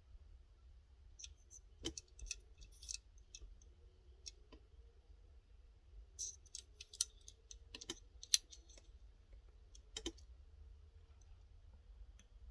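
Scattered small clicks and taps of a die-cast toy car being handled, the loudest about eight seconds in, over a faint low hum.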